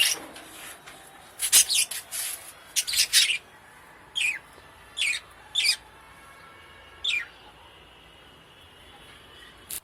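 Parakeets calling: a handful of short, sharp chirps, several sliding steeply down in pitch, with harsher raspy calls in the first few seconds. The calls stop about two seconds before the end.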